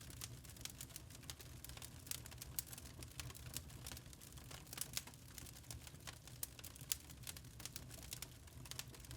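Wood fire crackling in a fireplace: irregular sharp pops and crackles, several a second, over a low steady rumble of the flames.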